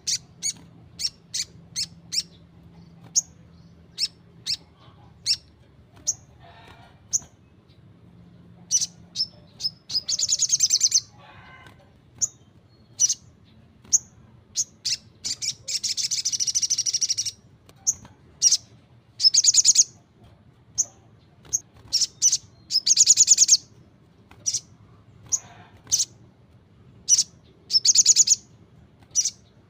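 Crimson sunbird (sogon) singing: a run of sharp, high chirps broken by several rattling trills about a second long.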